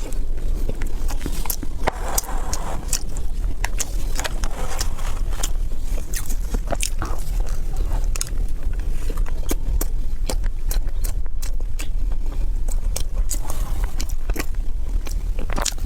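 Close-up biting and chewing of crisp food: many sharp crunches and clicks over a steady low rumble.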